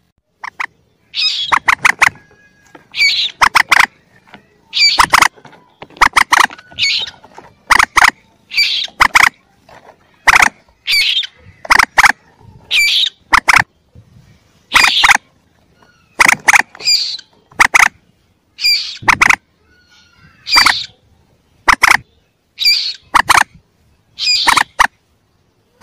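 Lure recording of young mandar (common moorhen) calls: short, sharp calls repeated about once a second, each a quick cluster of clicky notes.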